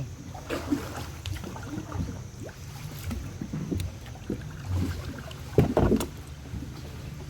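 A boat's motor running steadily, with scattered knocks and clatters; the loudest cluster comes about five and a half seconds in.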